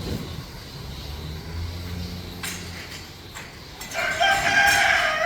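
Rooster crowing once, a long call that starts about four seconds in and runs on past the end.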